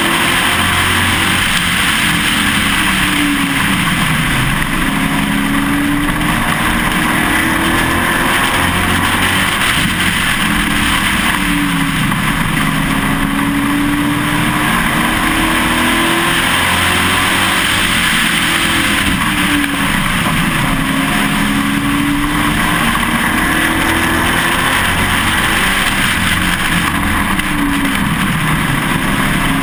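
Pro Truck race truck's engine heard from on board at racing speed. It climbs in pitch under throttle, then falls away as the driver lifts, over and over every few seconds, with steady wind and road noise underneath.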